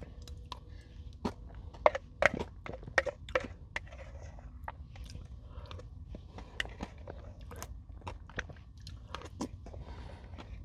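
Close-up crunching and chewing of crisp granola bars dipped in yogurt and whipped cream: a string of sharp, irregular crackles and bites, thickest in the first few seconds.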